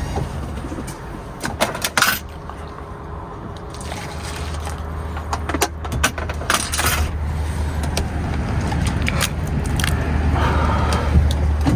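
Scattered clicks, knocks and light rattles of things being handled, over a low steady hum that grows stronger about four seconds in.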